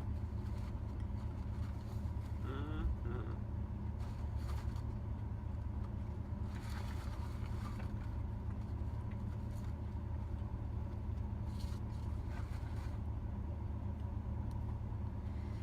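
Steady low hum of a truck idling, heard from inside the cab, with a brief faint rustle about seven seconds in.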